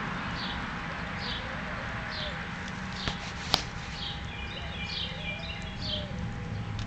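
A bird repeats a short, high, falling chirp about once a second over a steady low rumble. A sharp click comes about halfway through.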